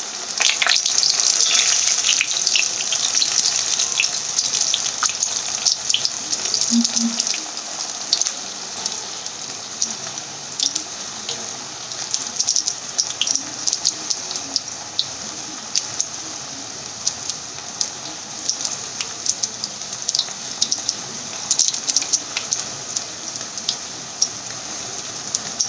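Smashed baby potatoes frying in hot mustard oil in a wok: a steady sizzle with scattered crackling pops, louder for the first several seconds and then settling a little quieter.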